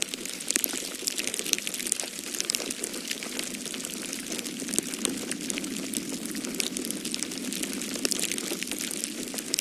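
Wood fire crackling in a fireplace: irregular sharp pops and snaps over a steady low rushing hiss.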